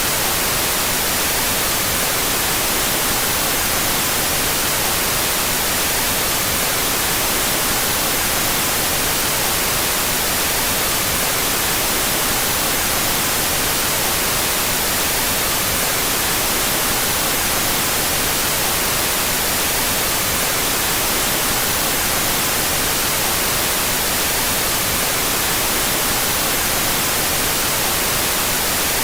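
Continuous white noise, steady and unchanging, with its hiss strongest in the high frequencies; the stereo channels are out of phase.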